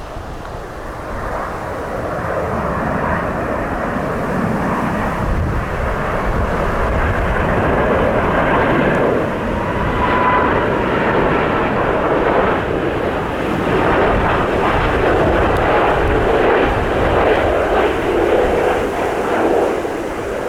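Boeing 777 jet engines running loud as the airliner comes in to land. The noise swells over the first several seconds and then holds. Gusty wind rumbles on the microphone underneath.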